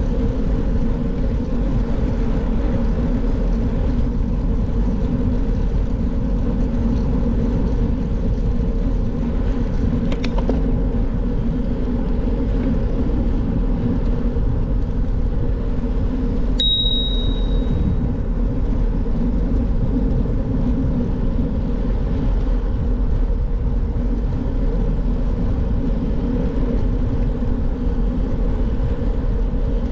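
Steady rumble of wind and road noise on a camera carried on a moving bicycle. About halfway through there is a single sudden high ring that fades within about a second.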